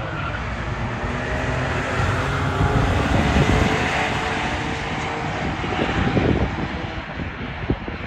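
A Dodge Stealth and a Ford F-150 pickup racing, engines at full throttle. The loud engine and exhaust noise swells about three seconds in, peaks again around six seconds, then eases off as the vehicles pull away.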